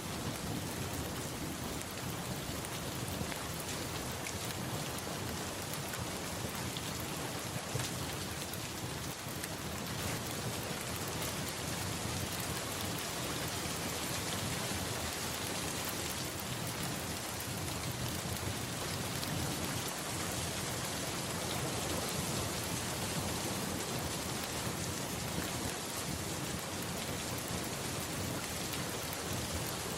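Steady rain falling, an even hiss with no let-up, with a low rumble underneath.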